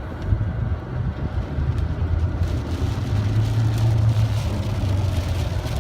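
Heavy thunderstorm rain hissing over a low, steady rumble; the rain grows louder about two and a half seconds in.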